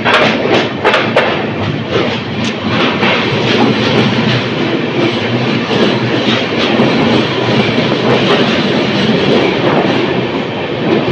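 Passenger train running along a station platform, heard from an open coach door: steady wheel and rail noise, with a run of sharp clicks in the first few seconds.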